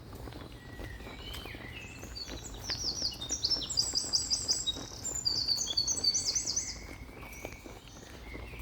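Songbirds singing: rapid, repeated high chirps and trills, several phrases at different pitches overlapping, loudest through the middle and fading near the end, over a low steady outdoor rumble.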